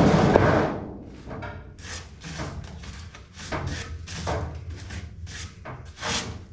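A loud rushing burst that cuts off under a second in, then a string of irregular short scrapes and knocks: metal and tools being worked while pulling riveted floor panels out of a race car's body.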